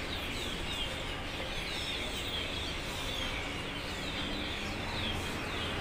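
Small birds chirping continually, short falling chirps a few times a second, over a steady background hubbub.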